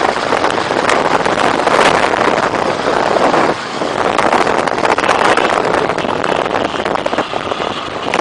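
Motorcycle engine running, mixed with wind noise on the microphone, with a brief drop in loudness about three and a half seconds in.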